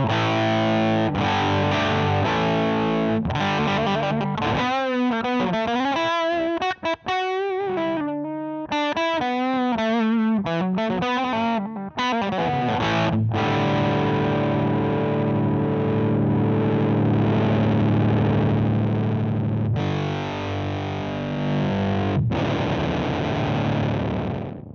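Electric guitar played through the Emmergy FX Flaming Cake Fuzz, a gritty fuzz tone. It opens with chords, then plays a stretch of wavering, bent single notes, then holds chords that ring out.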